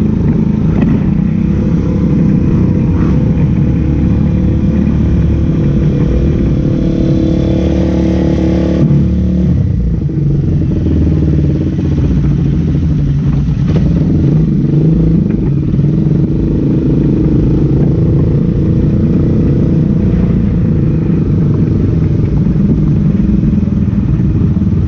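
Race car engine running hard at a steady loud level, its pitch shifting about nine seconds in.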